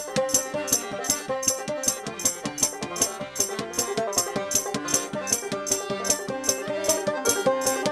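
Instrumental opening of a banjo-driven folk-punk song played live: picked banjo over hand percussion shaken in a steady beat of about four strokes a second.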